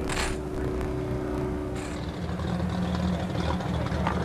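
Engine running as a steady low drone, its pitch shifting about halfway through, with two short hissing sweeps, one at the start and one near the middle.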